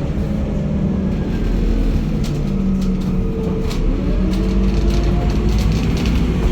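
Diesel engine of a Scania N230UD double-decker bus running, a five-cylinder Scania unit, its note rising and dipping slightly as it works. Scattered short clicks and rattles sound over the engine.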